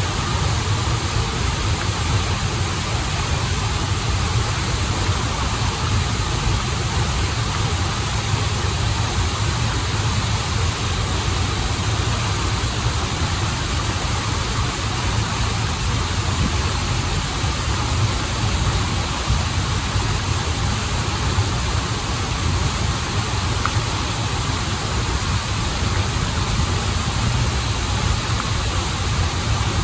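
Steady rush of water from a waterfall and stream, unbroken, with a deep low rumble under the hiss.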